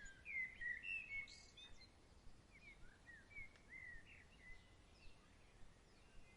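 Faint birdsong: a bird sings a quick run of short sliding chirps, loudest in the first second and a half, followed by a few scattered chirps, over a soft outdoor hiss.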